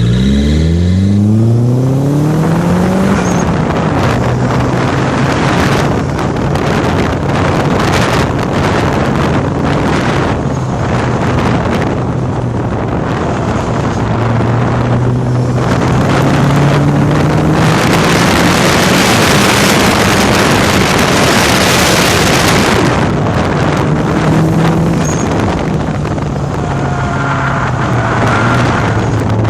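A 1990 Nissan 240SX's turbocharged SR20DET inline-four being driven hard on an autocross course, its pitch climbing in the first few seconds as it accelerates, then rising and falling with the throttle. Heavy wind noise rushes over the microphone throughout and is loudest about eighteen to twenty-two seconds in.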